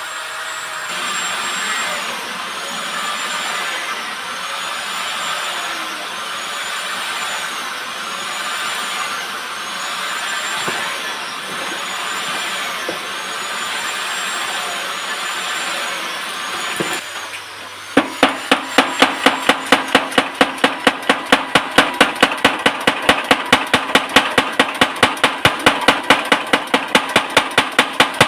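Metalworking on leaf-spring steel. First comes a steady rasping machine noise with a high whine that rises and falls about every second and a half. About two-thirds of the way in, it gives way to rapid, even hammer blows on steel, about four or five a second.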